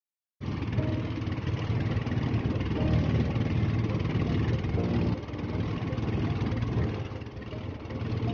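Outrigger boat (bangka) engine running steadily under way, cutting in abruptly just after the start, with a slight dip in level about five seconds in.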